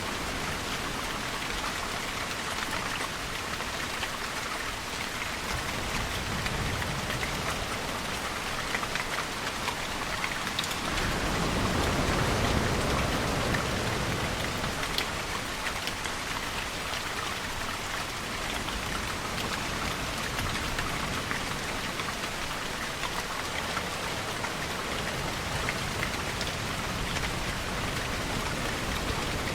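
Steady rain falling, with fine drips and patters on surfaces. A little before halfway through, a louder, deeper rushing swell builds for a few seconds and fades back into the rain.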